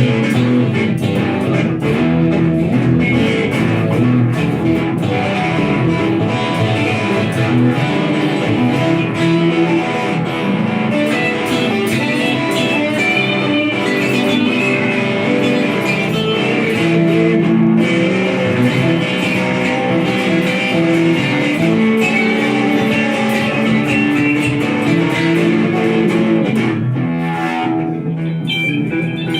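Improvised blues rock played on electric guitar: quick melodic lead lines over a strummed chord backing, with a run of sliding notes near the end.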